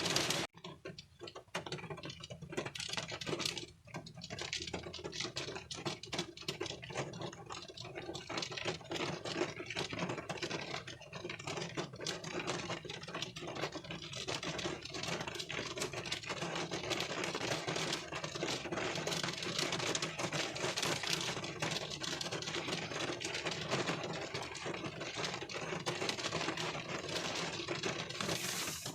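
Rain falling on a car windshield, heard from inside the car: a dense, irregular patter of drops over a steady hiss. It drops away briefly just after the start.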